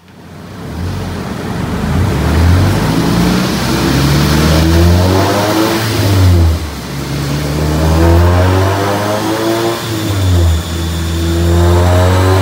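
Turbocharged 2.5 L four-cylinder stroker engine of a 2012 Mazdaspeed 3, with a Precision 6062 turbo, making a full-throttle pull on a chassis dyno. Its pitch climbs, drops back sharply twice as it shifts up (about six and a half and ten and a half seconds in), and climbs again after each drop.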